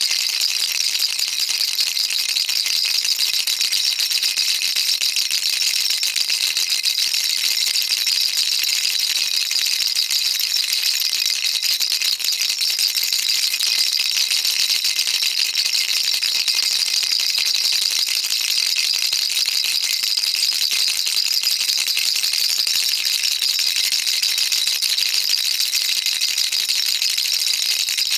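Baby rattle shaken continuously, its beads or pellets making a dense, even, high-pitched rattling with no pauses.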